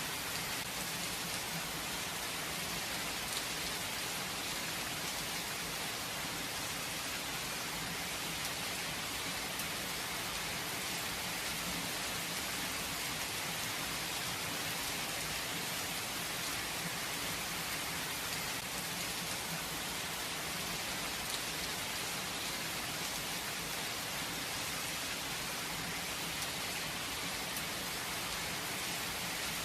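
Steady rain falling without thunder, an even hiss of drops on surfaces that stays constant throughout.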